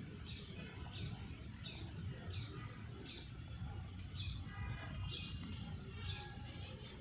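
A bird chirping repeatedly in the background: short, high, falling chirps about every half second, over a low steady rumble.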